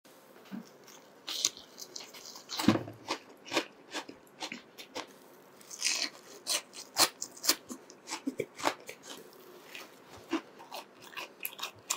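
Close-up eating sounds: crunchy bites into a deep-fried breaded chicken cutlet and chewing, an irregular run of short crisp crunches and wet mouth sounds.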